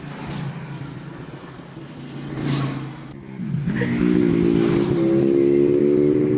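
An engine starts about three and a half seconds in, its pitch settling into a steady running note that rises a little a second later, after scattered knocking and rustling.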